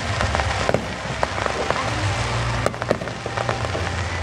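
Aerial fireworks crackling densely, a rapid patter of small pops like rain, with one sharper report a little past the middle.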